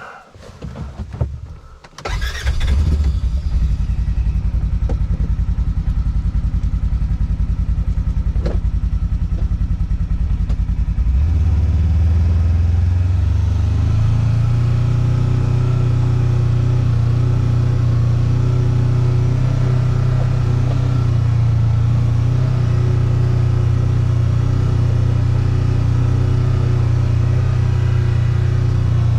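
A few knocks, then a vehicle engine starts about two seconds in and runs steadily. Its pitch steps up around eleven seconds and again around fourteen seconds as it revs higher, then holds steady.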